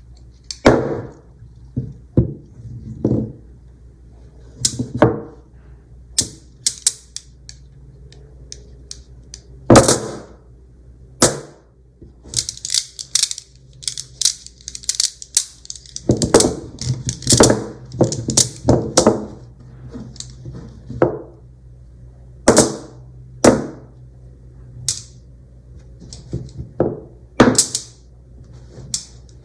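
Small magnetic balls snapping and clicking together as they are handled and arranged: irregular sharp clicks, sometimes single and sometimes in quick runs of several.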